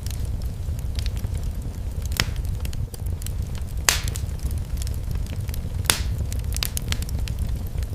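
Wood fire crackling in a fireplace: a low steady rumble with scattered sharp pops, the loudest about two, four and six seconds in.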